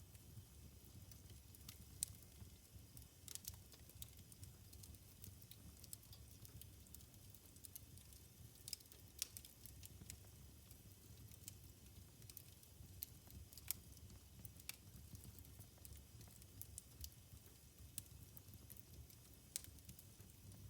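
Wood fire burning in a fireplace, faintly crackling with irregular sharp pops over a steady low rumble.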